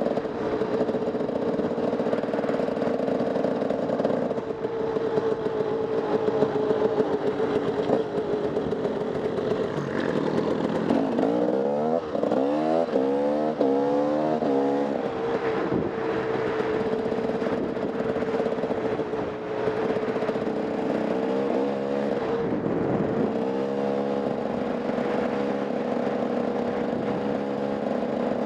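Off-road motorcycle engine running under load, mostly holding a steady pitch, with two stretches of quick rises and falls in revs partway through and again near the end as the throttle is worked and gears change.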